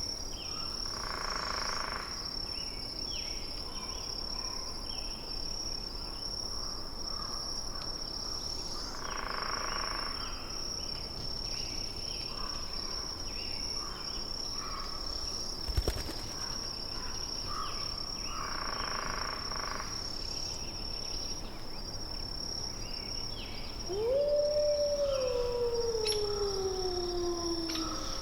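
Forest ambience with a steady high insect-like drone and scattered short bird chirps. Near the end comes one long animal howl that rises briefly, then slides slowly downward in pitch.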